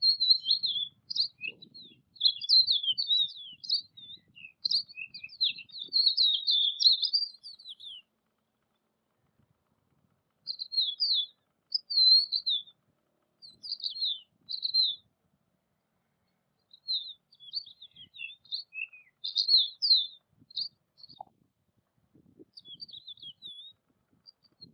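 A small songbird chirping: rapid, high twittering notes in several bouts, separated by pauses of about two seconds.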